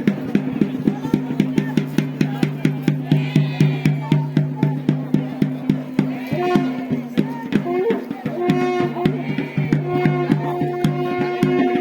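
Traditional procession music: drums beating a fast, even rhythm of about five strokes a second over a steady low drone, with a held melody line coming in about halfway through.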